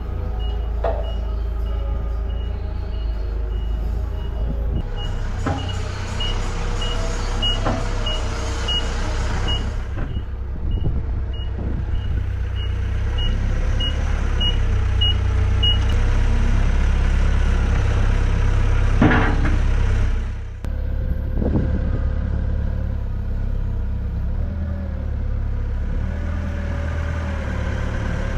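A vehicle engine running steadily, with a reversing alarm beeping at a steady pitch about one and a half times a second that stops about halfway through. A single clunk comes about two-thirds of the way in.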